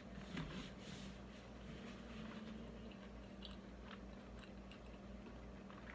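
Person quietly chewing a chicken quesadilla, with a few soft crunches, mostly in the first second, over a steady low hum.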